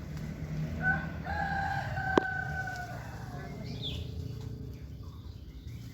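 A rooster crowing once: a long, level-pitched crow of about two seconds. About two seconds in, a single sharp crack cuts across it.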